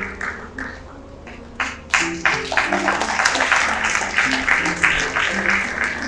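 Audience clapping over background music. The clapping thins out about a second in, then picks up again strongly and keeps going.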